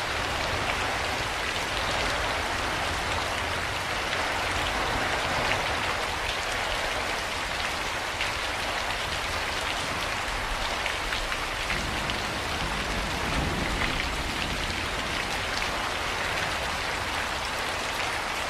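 Steady rain falling on a surface, a continuous hiss scattered with many small drop ticks.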